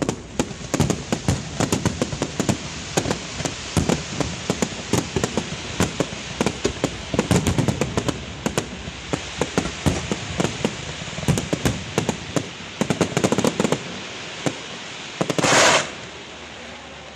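Fireworks display: aerial shells bursting in rapid, overlapping bangs with crackling, several a second. About fifteen seconds in comes a loud hiss lasting about half a second, after which the bangs die down.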